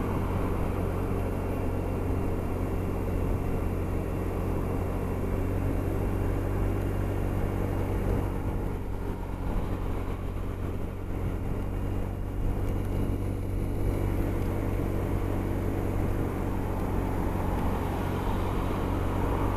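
Honda SH300i scooter's single-cylinder four-stroke engine running at a steady motorway cruise, heard with road and wind noise; the engine pitch holds even throughout.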